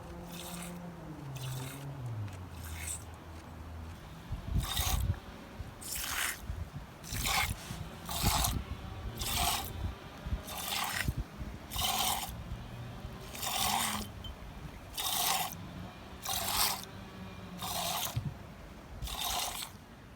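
Goat being hand-milked: milk squirts hiss into a bowl in short, even strokes, roughly one every second and a quarter.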